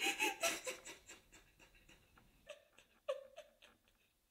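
A person's halting, breathy vocal sounds in short bursts, densest in the first second, with a few short pitched cries about three seconds in.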